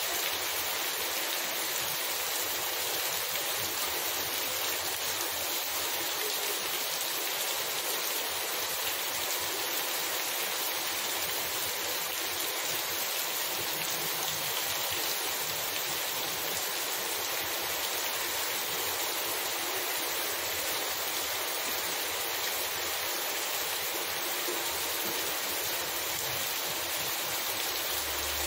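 Heavy rain falling steadily on a wet paved street, an even hiss that holds at the same strength throughout.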